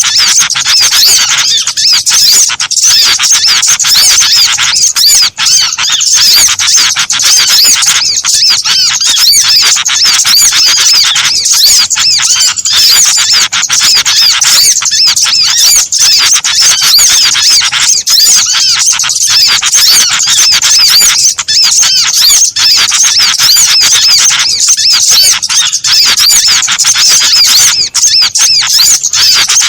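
A dense, unbroken chorus of many small birds chirping and squeaking fast and high, overlapping without pause: a bird-lure recording that mixes the calls of several small bird species to draw small birds in.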